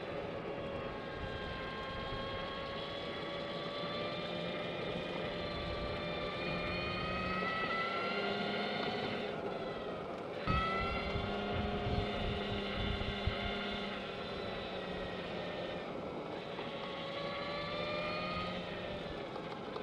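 Energica Experia electric motorcycle riding, its motor whining in a pitch that rises and falls with the throttle, over wind and tyre noise. About ten seconds in the whine fades briefly, then a knock is heard and the whine climbs again as the bike speeds up, with a few smaller knocks after.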